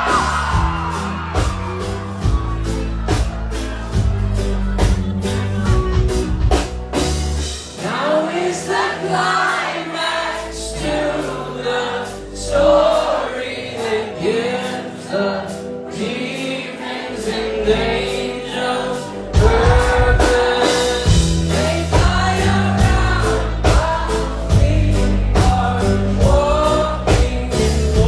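Live band music with singing over drums and heavy bass. The bass drops away about eight seconds in, and the full band comes back in sharply after about nineteen seconds.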